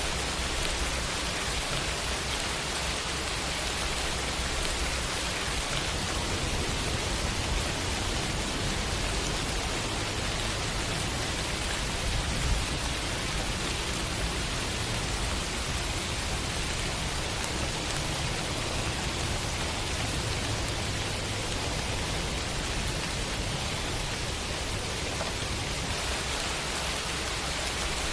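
Steady rain falling in a city at night, an even dense hiss with a low rumble underneath. There is a single brief tick about twelve seconds in.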